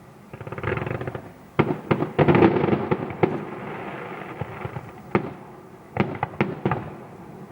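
Fireworks display going off: a crackling stretch, then a rapid volley of sharp bangs about a second and a half in, and more scattered bangs near the end.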